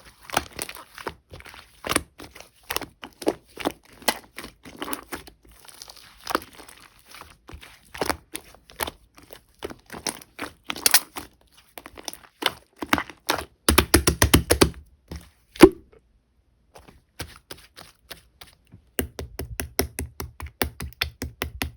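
Clear slime mixed with clay being squished and pressed by hand, making a string of sticky clicks and pops. Quicker runs of clicks come about two-thirds of the way through and again near the end, with a short pause between them.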